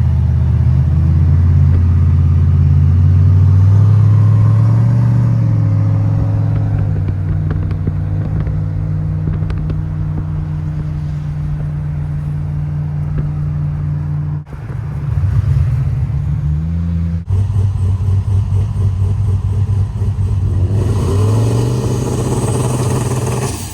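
Barra-powered Toyota Crown wagon's engine running steadily on the move, its pitch shifting slightly and rising again near the end. The sound breaks off sharply and briefly twice in the second half.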